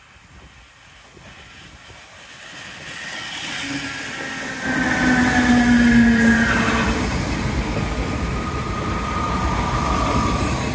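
Irish Rail DART 8100-class electric multiple unit approaching and passing close by. It grows steadily louder over the first half into a rumble of wheels on rail, with whining tones that dip slightly in pitch as it goes by.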